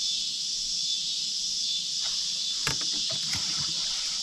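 Steady, high-pitched chorus of insects shrilling. About two and a half seconds in, a short cluster of knocks and clicks breaks in over it.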